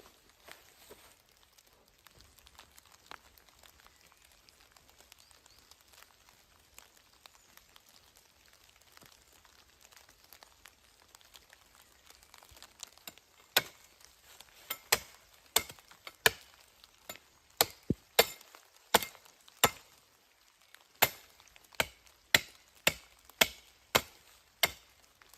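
Wood being chopped: quiet at first, then from about halfway through a run of sharp chopping strikes, roughly two a second, with a brief pause before a last burst of blows.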